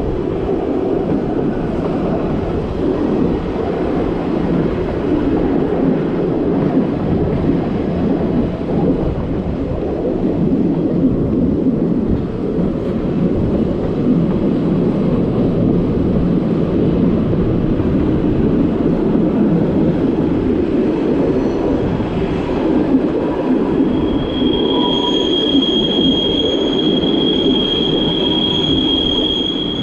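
Le Petit Train Jaune, a metre-gauge electric train, running along the track, heard from an open carriage as a steady rumble of wheels on rail. In the last few seconds a steady high-pitched wheel squeal rises over it as the train rounds a curve.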